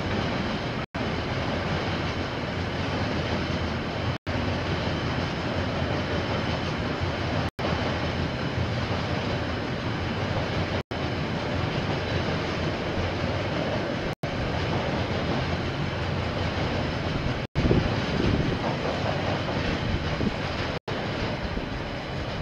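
A KiwiRail train rolling past, its wheels running steadily on the rails with a continuous rumble and some clickety-clack. The sound dips for an instant about every three seconds, is a little louder about three-quarters of the way through, and starts to fade near the end.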